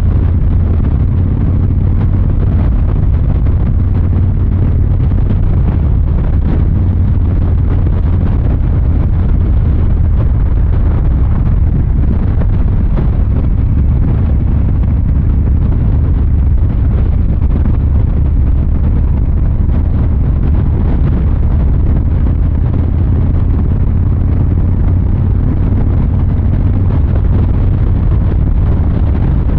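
2023 Harley-Davidson Fat Boy 114's Milwaukee-Eight 114 V-twin running at a steady cruise, its exhaust sound low and even with no revving.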